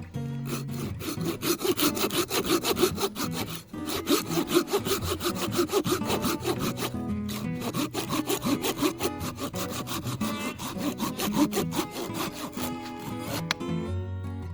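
Hand saw cutting through wood in quick, even back-and-forth strokes, with short pauses about four and seven seconds in; background music plays underneath.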